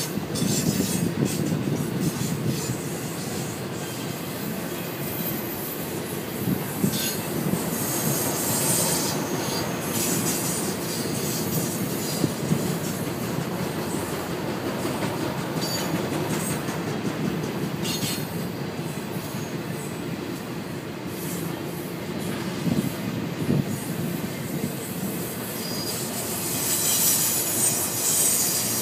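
Intermodal freight cars carrying truck trailers rolling past, a steady rumble of steel wheels on rail. A high squeal from the wheels comes and goes and is strongest near the end, with a few sharp clanks about halfway through.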